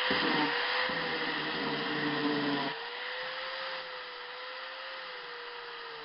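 4-inch angle grinder running with a stick-on sandpaper disc, sanding, with a steady motor whine over rough grinding noise. The rougher sanding noise stops about three seconds in, and the grinder runs on more quietly.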